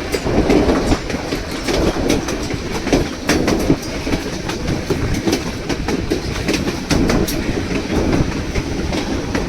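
White Pass & Yukon Route narrow-gauge passenger train running, with wheels clicking and clattering over the rails and a steady rumble of the cars in motion.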